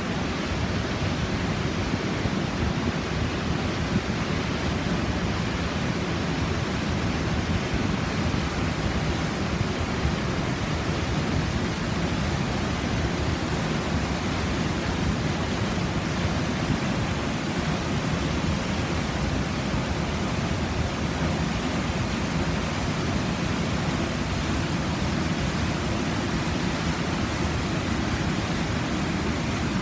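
Waterfall and whitewater cascades on a mountain creek in spring runoff, a steady roar of falling water heard up close at the base of the falls, heaviest in the low end.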